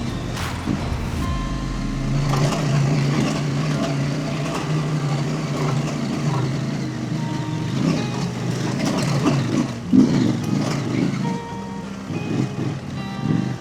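Husqvarna Norden 901's parallel-twin engine running as the motorcycle rides a dirt trail. The engine note holds steady for a few seconds, then rises and falls with the throttle in the second half.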